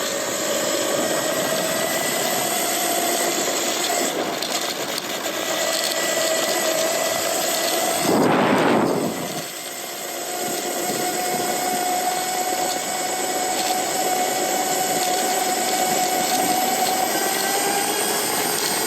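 Lightning Rods mid-drive electric motor on a titanium e-bike running under way, a steady whine over road and wind noise, rising slightly in pitch near the end. A brief loud rush of noise about eight seconds in.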